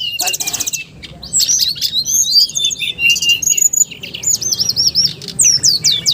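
A songbird singing loudly: a fast, varied run of whistled slurs, repeated falling notes and rattling trills, with a quick ticking trill about half a second in.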